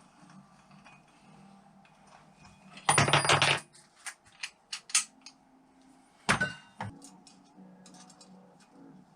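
Small metal parts and tools clinking and clattering as they are handled: a loud rattle lasting about half a second about three seconds in, then a few sharp clicks, and a single clank a little after six seconds.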